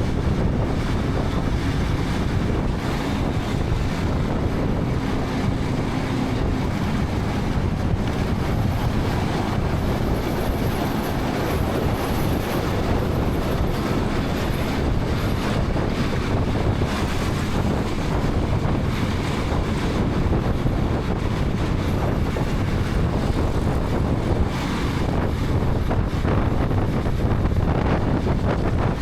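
Steady wind rush on a helmet camera's microphone while riding a KTM 250 Adventure motorcycle, with its single-cylinder engine and road noise running underneath.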